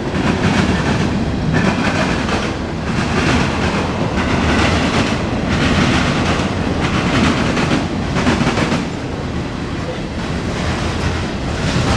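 Freight cars of a mixed freight train rolling past: a steady rumble of steel wheels on rail, with a clickety-clack recurring about every second and a half as wheel sets cross rail joints.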